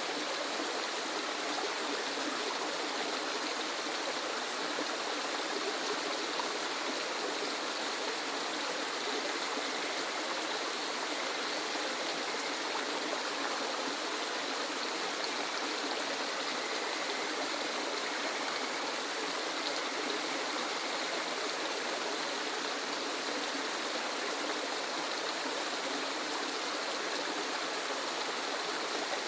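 Waterfall: a steady, even rush of falling water with little deep rumble.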